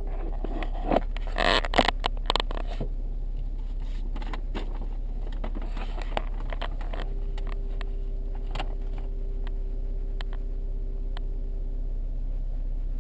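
Jeep Wrangler idling with a steady low drone. A burst of sharp knocks and scrapes comes about one to two and a half seconds in, and a faint steady whine is heard for about five seconds in the second half.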